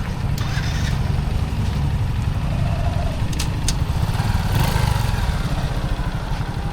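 An engine running steadily at idle with an even low throb, with a few sharp clicks a little past halfway.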